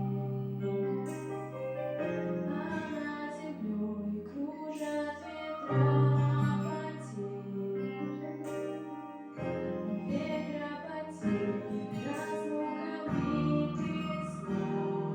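A female voice singing a slow song with instrumental accompaniment, sustained bass notes underneath.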